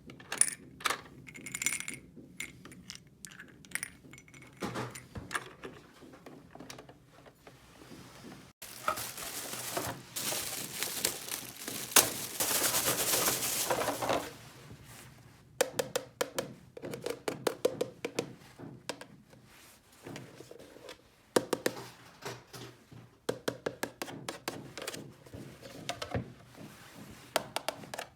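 Small hard plastic toy parts clicking, tapping and clinking as they are handled and set down, with a quick run of clicks now and then. In the middle, about six seconds of steady rustling hiss.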